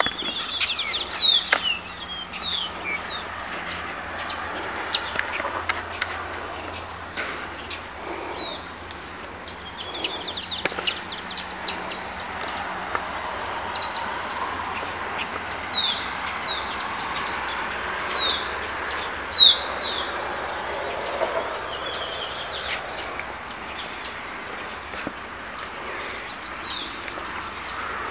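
Birds calling in woodland, many short falling chirps repeated throughout, one louder call about two-thirds of the way in, over a steady high-pitched insect drone.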